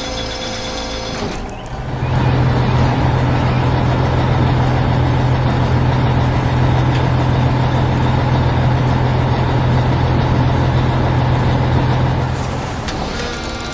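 Heavy vehicle engine sound effect running steadily, a loud low hum that starts about two seconds in and eases off near the end.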